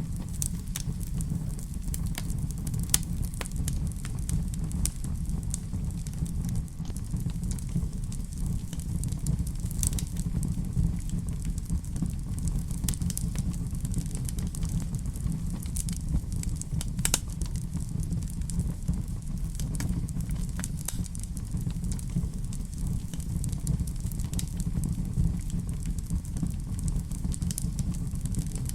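Wood fire in a fireplace crackling: frequent irregular sharp pops and snaps over a steady low rumble of the burning fire.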